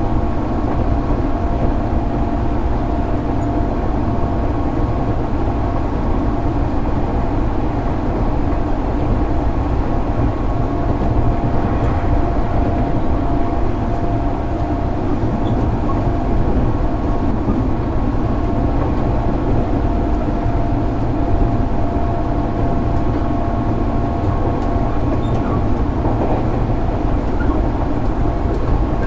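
Running sound heard inside a JR 205 series 600-subseries electric commuter train cruising at a steady speed: a constant rumble of wheels on track, with a steady high hum over it.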